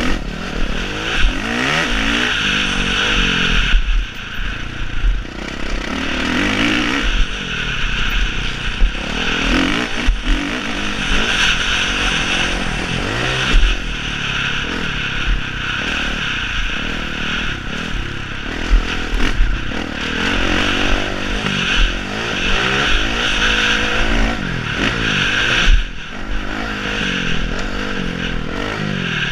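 Several motocross bikes' engines revving up and down, their pitches rising and falling over one another throughout.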